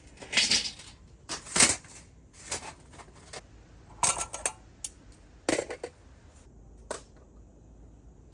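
An irregular series of about seven short clattering, rustling knocks, as objects are handled, the loudest about a second and a half in.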